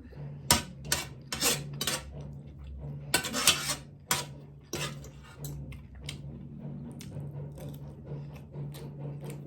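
Crab shell being cracked and pulled apart while eating, with a string of sharp cracks and clinks against the plate, busiest in the first few seconds; a steady low hum runs underneath.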